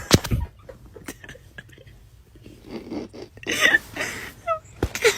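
A dog stirring in its bed: soft rustling and scuffing of bedding with scattered light clicks, and a few short whines near the end.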